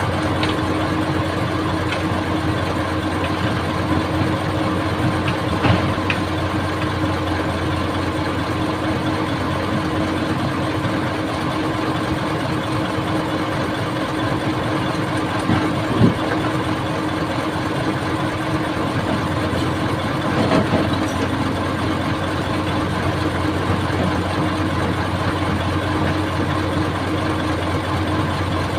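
An old excavator's diesel engine running steadily at a constant speed, with a few short knocks from the machine, the loudest about halfway through.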